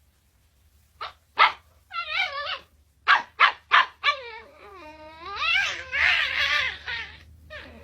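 A dog barking a few short times, with a wavering cry in between, then one long drawn-out wavering cry that rises and falls in pitch.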